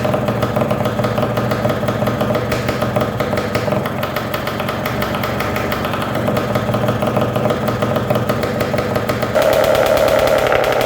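Honda CRM250's two-stroke single-cylinder engine running at a steady idle, getting louder about nine seconds in.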